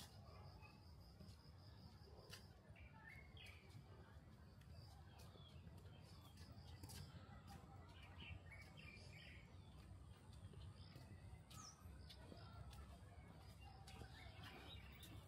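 Faint, scattered bird chirps over a low steady outdoor rumble.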